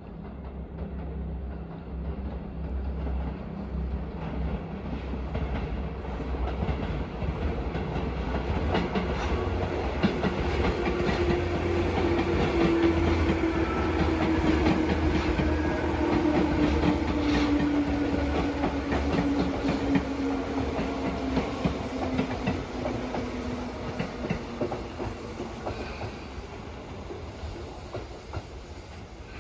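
Tobu Railway electric train running past: wheels clicking over the rail joints, growing louder to a peak about halfway and then fading, with a motor whine that slides slowly down in pitch.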